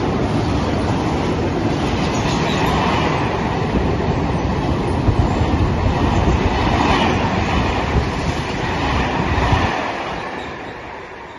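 Freight train wagons rolling past close by, wheels clattering over the rails in a loud, steady rush. The sound drops away about ten seconds in as the last wagon goes by.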